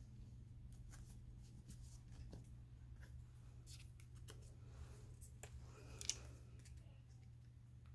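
Faint handling of paper craft pieces: scattered light rustles and small clicks, with one sharper tick about six seconds in, over a low steady hum.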